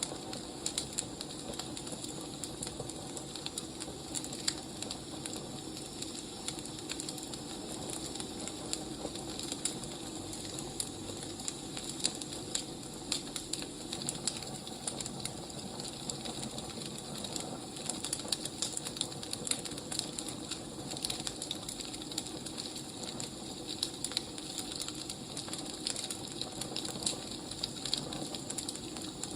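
Wood fire crackling: a steady hiss with frequent irregular pops and snaps.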